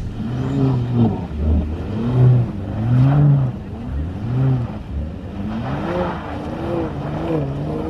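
Mercedes-AMG car engine revving up and dropping back again and again, about once a second, as the throttle is worked on and off to hold the car sliding on snow.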